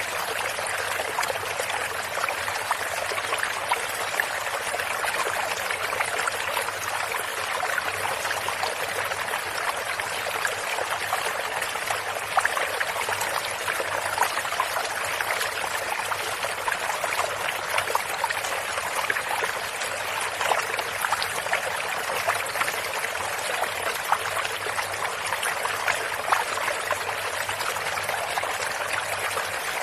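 Stream water running and trickling steadily, a continuous splashing rush made up of many small splashes.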